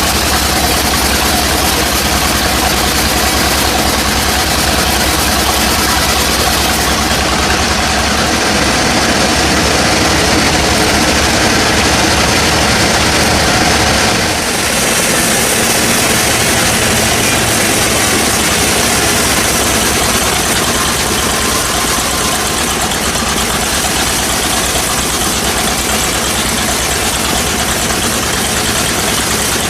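Sawmill machinery running steadily, with a heavy engine drone under dense machine noise; the sound shifts in character about halfway through.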